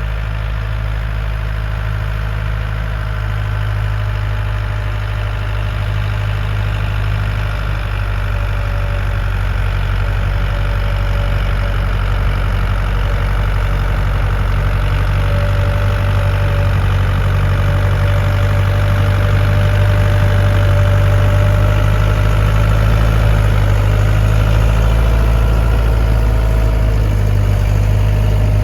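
Lovol tractor's diesel engine running steadily, with a thin, slightly wavering whine over it.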